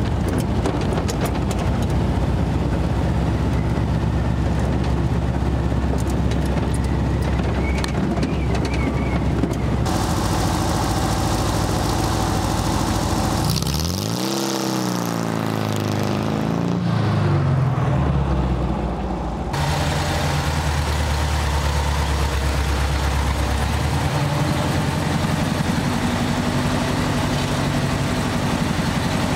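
Air-cooled 36 hp VW flat-four engine in a dune buggy, running as it drives over a rough dirt track, with many clicks of stones and gravel at first. Partway through it passes close by, its engine pitch rising and then falling away, and then it runs steadily again.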